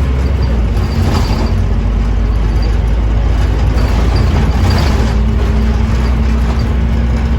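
Scania OmniCity double-decker bus's diesel engine running steadily under way, a low drone with road noise.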